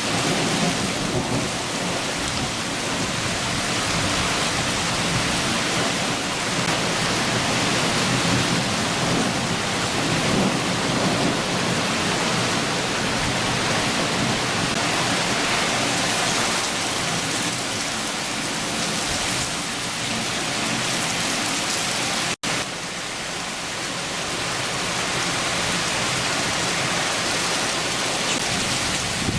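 Heavy summer rain shower falling steadily, with low thunder rumbling under it. The sound cuts out for an instant about three quarters of the way through.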